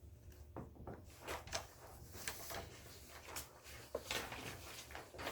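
Scattered small handling noises in a quiet meeting room: paper rustling and light knocks and clicks on a table, over a steady low hum.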